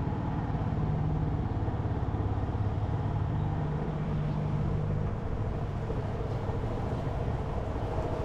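Motorcycle engine running steadily under way, easing off slightly about five seconds in.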